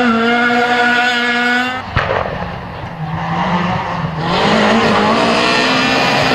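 Rally car engine held at high revs, broken by a sharp crack about two seconds in. The revs then drop and waver before the engine pulls loud and steady again from about four seconds in.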